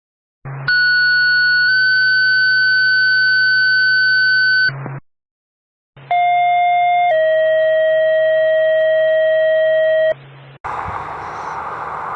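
Two fire-dispatch two-tone sequential paging tone sets heard over a radio channel, each a one-second tone stepping to a three-second tone, with a hum under them. The pair signals the alert that dispatches the department to the call. About ten seconds in the tones give way to steady outdoor noise.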